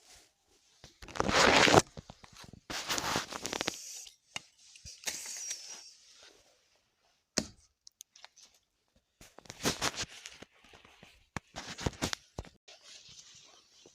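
Several rough bursts of rustling and scraping, each about a second long, with the loudest about a second in and a single sharp click about halfway through.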